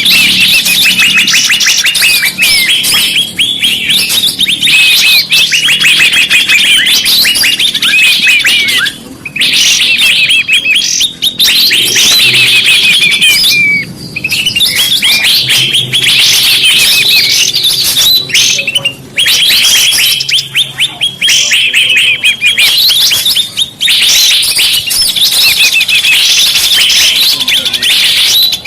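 Bird-lure (pikat) recording of small birds chirping and trilling in fast, dense runs of high notes, loud and almost unbroken, with a few short pauses.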